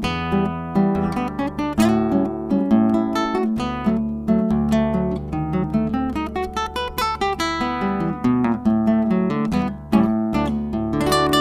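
Solo acoustic guitar playing a Brazilian choro, a quick plucked melody over a running bass line with no pause.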